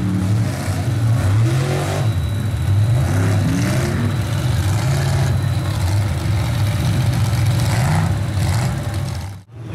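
Truck engine revving over and over, its pitch climbing and falling with each blip of the throttle. The sound cuts out sharply for a moment near the end.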